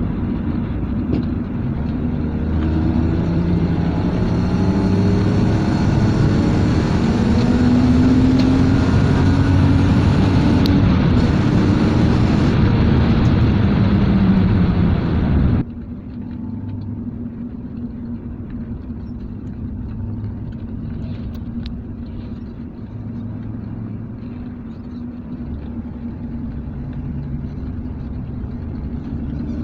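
A BMW E34 525i's straight-six engine pulling on the road, its pitch rising and falling with throttle and gear changes, under loud road and wind noise. About halfway through the sound cuts off suddenly to a quieter, steadier engine hum with less road noise.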